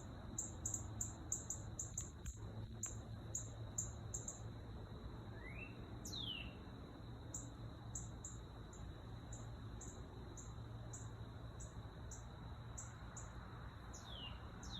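A small songbird singing loudly: quick runs of short, high, repeated chirps, about three a second, broken by a few sharp falling slurred whistles, one about six seconds in and two near the end.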